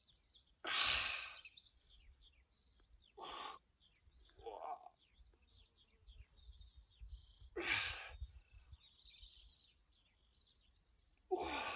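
A man breathing out hard through a set of banded overhead presses: about five forceful exhales a few seconds apart, one with a short groan of effort. Small birds chirp faintly throughout.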